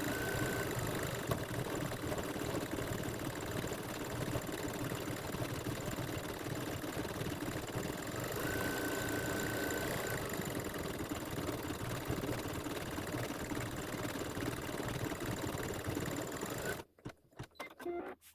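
Embroidery machine stitching out a section of the design, its needle running steadily at a constant speed, then stopping abruptly about a second and a half before the end, followed by a few small clicks.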